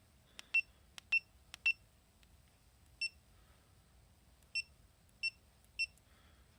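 GoPro Hero5 Session camera beeping: about ten short, high beeps at irregular intervals, some in quick pairs.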